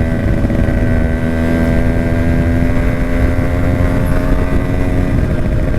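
Yamaha RX 100's two-stroke single-cylinder engine running at a steady speed under way, with low wind rumble on the microphone.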